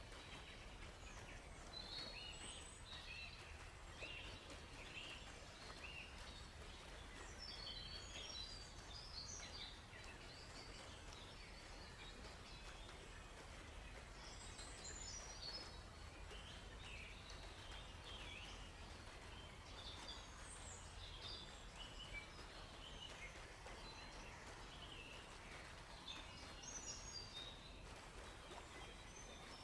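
Faint forest ambience: several songbirds chirping and twittering in short, scattered phrases, over a steady low background rumble.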